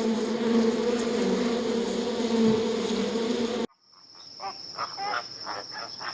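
Bee buzzing in flight: a loud, steady drone that cuts off abruptly after about three and a half seconds. It is followed by a quieter mix of a thin, steady high whine and short chirping calls.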